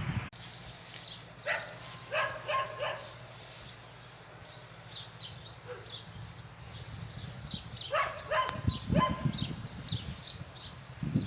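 A dog barking in two short bouts of several barks each, with small birds chirping throughout.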